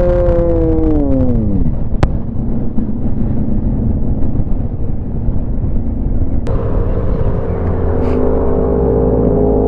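Motorcycle engine and road rumble while riding. The engine note drops steeply in the first second and a half as the throttle is closed. After a sudden break about two-thirds of the way in, a steady engine note holds at cruise.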